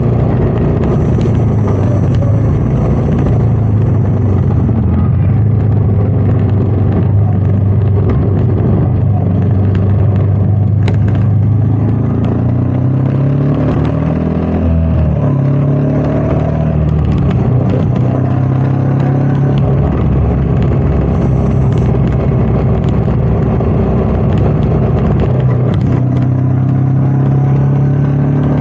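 Royal Enfield Meteor 350's single-cylinder engine running under way, with wind rushing past. The engine note drops and then climbs again about halfway through.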